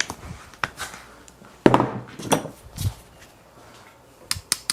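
Small metal hand tools and bike parts being handled: a series of sharp clicks and clinks, the loudest about two seconds in with a short ring, and two quick taps near the end.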